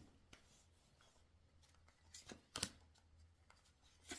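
Tarot cards being handled and drawn: a few short, soft card snaps and slaps, the most distinct about two and a half seconds in, over near silence.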